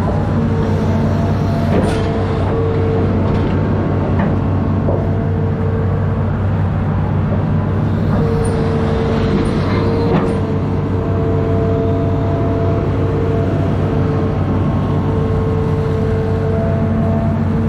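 Amphibious excavator's diesel engine running steadily, with a whining tone that starts and stops several times and a few brief knocks.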